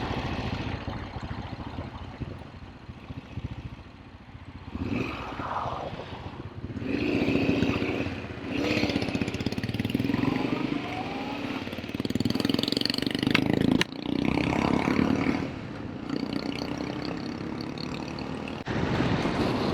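Motorcycle engine running under way, its revs rising and falling several times as it is ridden.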